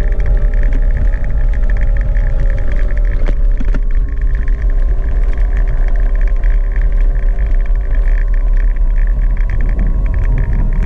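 Gogoro 2 electric scooter on the move: a heavy, steady wind rumble on the microphone, with a steady whine from the electric motor running through it.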